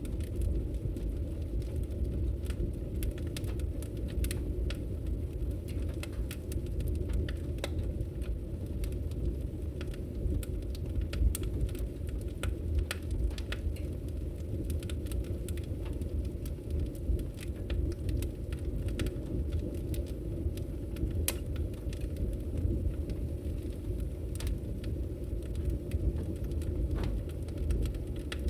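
Wood logs burning in a fireplace: a steady low rumble of the fire with irregular sharp crackles and pops.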